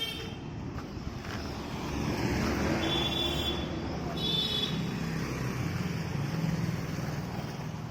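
Road traffic with trucks and heavy vehicles passing: a low engine rumble and tyre noise that swells to a peak mid-way and eases off, with two short high tones about three and four seconds in.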